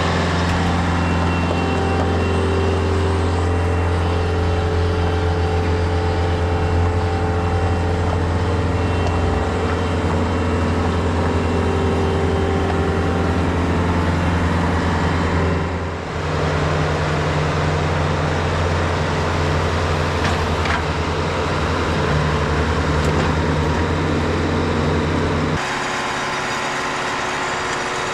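TimberKing 2520 portable sawmill's engine running steadily under power. Its deep low note drops away near the end.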